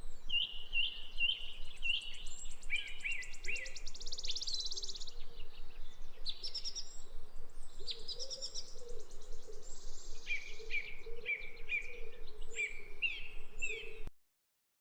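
Songbird song: runs of short, repeated high chirps at about three a second, broken by fast rattling trills about three seconds in and again about eight seconds in. The song stops abruptly near the end.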